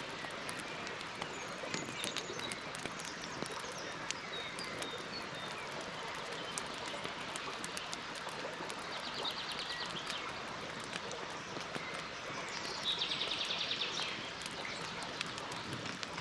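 Campfire burning with a steady hiss and frequent sharp crackles and pops. Birds chirp in the background, with a rapid trill twice, about nine and thirteen seconds in.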